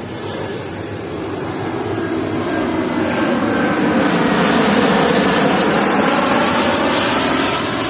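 Airliner flying low overhead on its landing approach, its engine noise building to a peak about halfway through and easing toward the end, with whining tones that shift in pitch as it passes.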